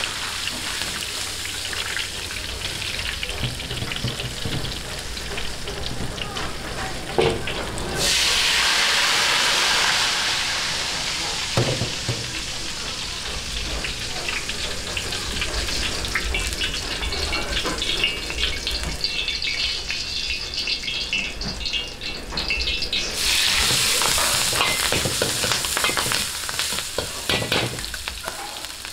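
Hot oil sizzling in a wok as battered pork pieces deep-fry in a perforated wire strainer, with light clinks of metal utensils. The sizzle surges louder twice, about eight seconds in and again about two-thirds of the way through.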